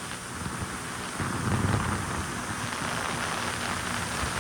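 Jet ski under way on open water: a steady rush of spray and water against the hull with wind on the microphone, and the engine's low rumble underneath. It gets louder about a second in.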